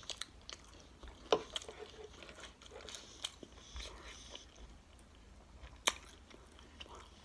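Close-miked chewing of food, with wet mouth clicks and smacks. A few sharper clicks stand out, the loudest about a second in and near the end.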